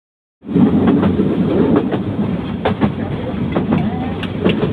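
Train running on the rails: a steady loud rumble with irregular clicks and knocks of the wheels over the track, starting about half a second in.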